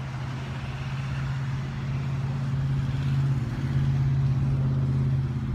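A motor vehicle's engine running steadily nearby, a low even hum that grows a little louder and then cuts off suddenly.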